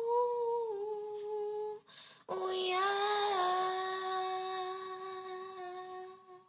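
A girl's voice holding two long wordless notes, with a breath in between about two seconds in. The second note steps down slightly about a second later and fades out near the end.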